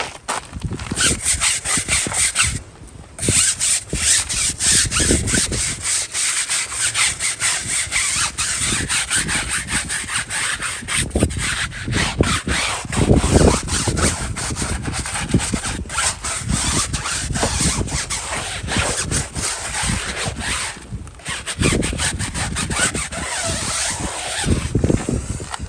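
Rapid, continuous rubbing or scrubbing strokes, the sound of something being scrubbed by hand, with short pauses about three seconds in and again near the end.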